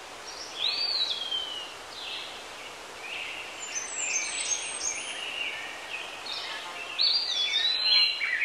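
Birds chirping and whistling, with short gliding calls, over a steady outdoor background hiss.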